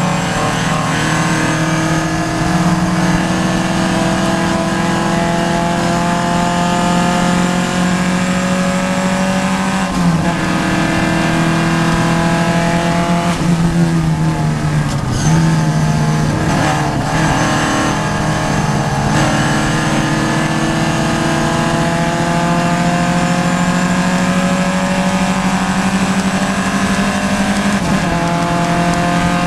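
Vintage Triumph race car's engine heard from inside the cockpit at racing speed, its note climbing slowly through long pulls. The pitch drops and breaks a few times, at about ten seconds in, around the middle and near the end, as the driver lifts or changes gear.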